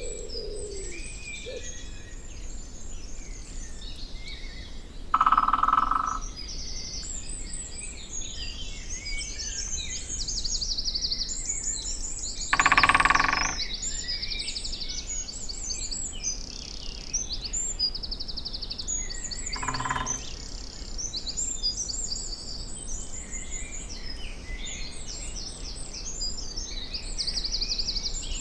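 Dawn-chorus songbirds singing and chirping densely in a forest, with a great spotted woodpecker drumming three times, about five, twelve and twenty seconds in. Each drum roll lasts about a second, and the first two are the loudest sounds; a wood pigeon's coo trails off at the very start.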